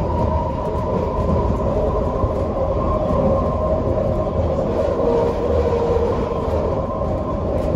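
Interior of a moving SkyTrain car: a steady low rumble of the ride, with a steady whine running over it.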